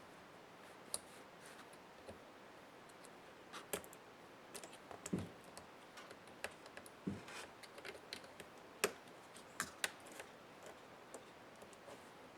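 Scattered small clicks and taps of plastic and metal laptop parts and tools being handled during disassembly, with two duller knocks about five and seven seconds in.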